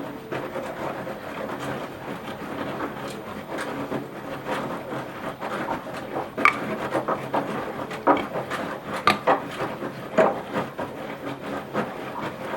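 Washing machine running mid-cycle: a steady rushing noise from the turning drum, with several sharp knocks in the second half.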